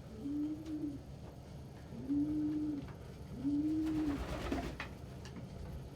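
Domestic pigeon cooing: three low coos, each a short tone that rises and falls, spaced about a second and a half apart. A brief rustle comes just after the third coo, about four seconds in.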